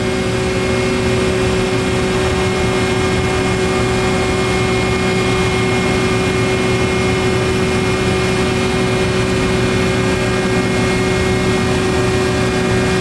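Power-plant gas turbine generator running steadily: loud, even machine noise with a constant whine on several steady pitches.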